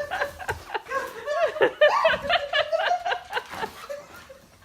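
People laughing and giggling, a run of short, quick laughs that fade near the end.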